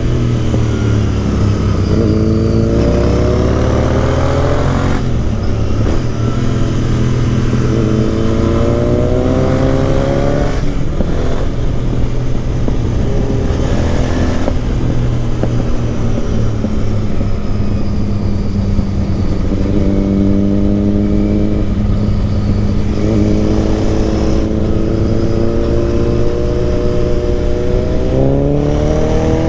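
Royal Enfield Interceptor 650's parallel-twin engine with an aftermarket exhaust, heard from the rider's seat, accelerating hard through the gears: the pitch rises in several long sweeps and drops back at each shift, over a steady rush of wind.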